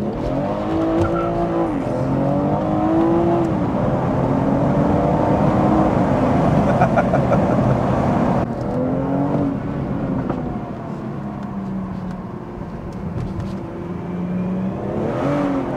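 BMW M240i's turbocharged 3.0-litre straight-six with a Scorpion OPF and resonator delete, heard from inside the cabin, accelerating hard through several gear changes: the engine note climbs, drops at each shift, and climbs again.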